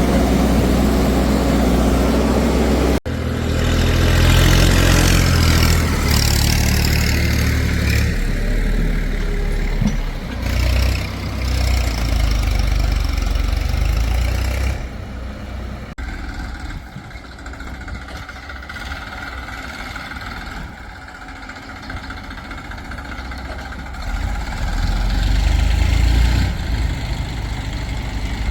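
Diesel engines of heavy farm and construction machinery running and idling, a steady low rumble that changes abruptly several times, about 3, 8, 15 and 24 seconds in, and is quieter in the second half.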